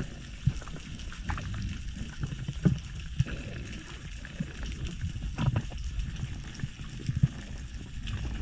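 Muffled water sloshing and rumbling around the camera of a spearfisher in the sea, with scattered sharp clicks and knocks.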